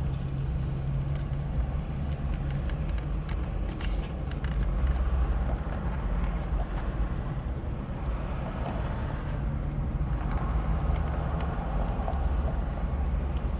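Car engine idling with a steady low hum, with a few light clicks over it.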